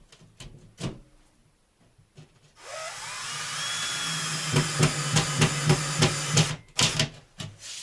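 Cordless drill-driver spinning up with a rising whine and driving a self-tapping screw into a plasterboard frame, with rapid clicking of about five a second as the screw bites. It stops abruptly, with a few light knocks before and after.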